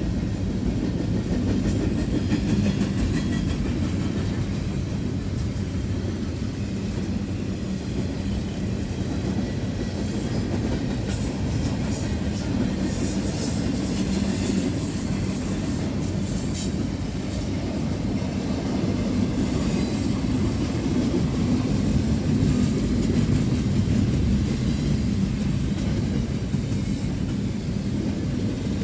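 Double-stack intermodal container train's well cars rolling past: a steady rumble of steel wheels on rail with clickety-clack.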